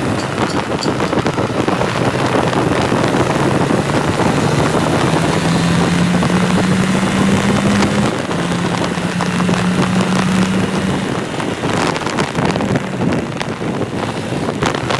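Motorcycle engine running while riding, with wind rushing over the microphone. The engine note climbs in pitch twice as it accelerates, dropping back about halfway through, then fades near the end.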